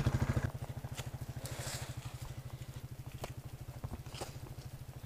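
Four-wheeler (ATV) engine idling with an even, rapid low pulse. It drops to a quieter idle about half a second in. A few faint clicks sound over it.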